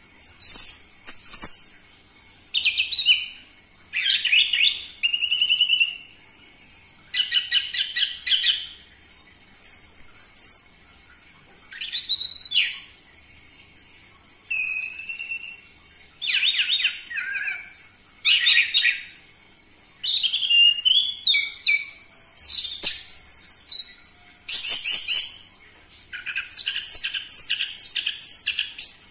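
Orange-headed thrush singing loudly: a run of varied high phrases of whistles and rapid chattering notes, each about a second long, with short pauses between them.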